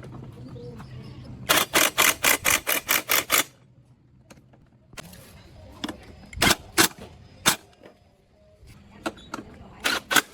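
Repair work on a motorcycle: a quick run of about nine sharp knocks, about five a second, for two seconds. Then scattered single clicks and knocks, a few near the end.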